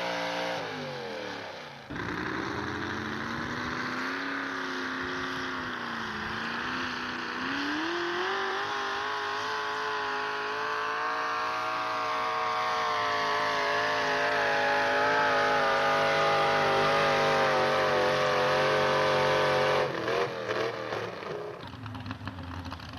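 A pulling truck's engine running hard under load, its revs climbing steadily for about twelve seconds. Near the end it drops off abruptly and the pitch falls away as the engine is backed off. Just before that, in the first two seconds, an engine winds down and then cuts abruptly to the next run.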